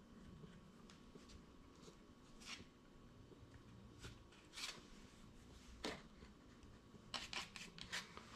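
Faint, scattered small clicks and rustles of hand work against quiet room tone, coming closer together a little before the end.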